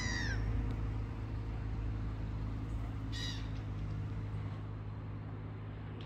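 A bird gives two short, falling calls, one right at the start and one about three seconds in, over a steady low rumble.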